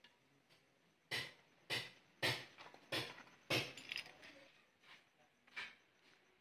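Metal engine parts and hand tools clinking and clanking as they are handled: a string of sharp metallic knocks, most of them in the first few seconds with another near the end.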